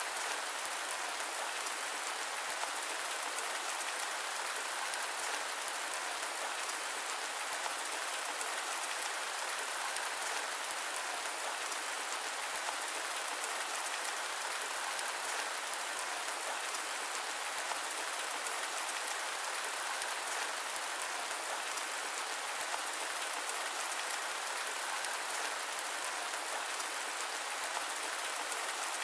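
Steady rain mixed with white noise: an even, unchanging hiss with a fine patter of drops and no thunder.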